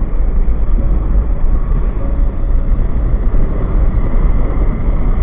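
Wind buffeting the microphone of a moving motorcycle: a loud, steady low rumble from the rush of air, with riding noise underneath.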